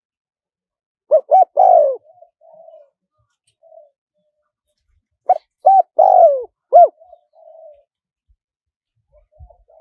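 Spotted dove cooing: two loud phrases of several coos each, the first about a second in and the second about four seconds later, with softer short coos between them.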